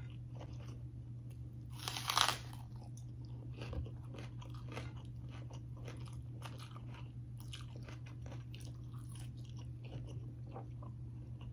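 A person eating close to the microphone: chewing and mouth clicks from fried tofu, with one louder crunchy bite about two seconds in.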